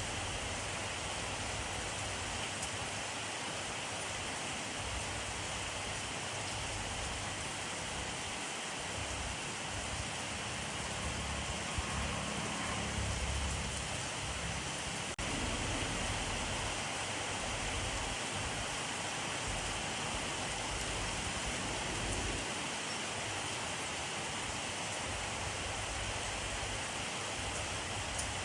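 Steady rainfall: a dense, even hiss of rain falling on a surface, with a low rumble swelling briefly about halfway through.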